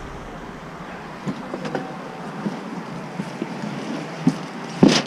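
Scattered light knocks over a steady background noise, with one loud sharp bang near the end.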